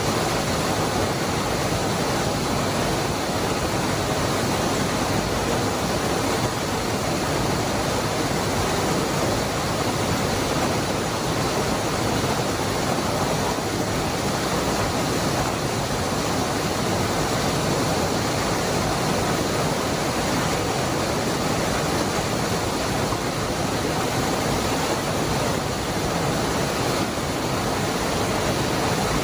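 Waterfall (Cascada del Hervidero) rushing in a steady, even roar of falling water, unchanging throughout.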